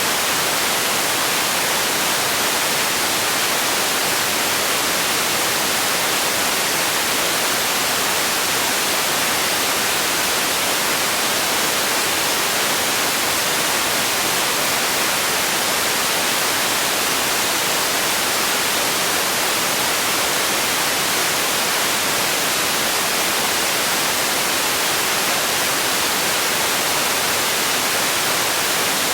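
Steady white noise: an even hiss, bright and trebly, that never changes.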